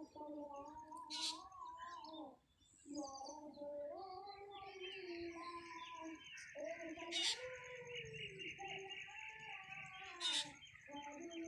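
Birds chirping, with a fast high trill through the middle, over a lower, drawn-out pitched sound that rises and falls in steps.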